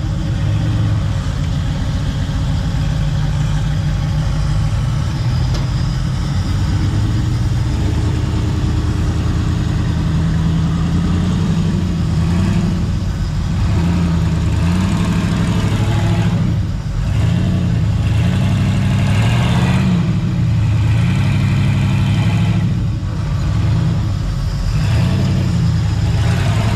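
Off-road competition 4x4 truck engine revving hard, rising and falling as the truck works an obstacle, with brief easings of the throttle about two thirds and five sixths of the way through.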